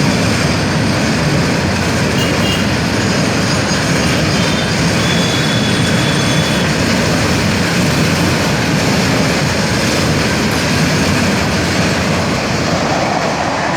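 Freight train wagons rolling past at close range: a steady, loud rumble and rattle of steel wheels on the rails.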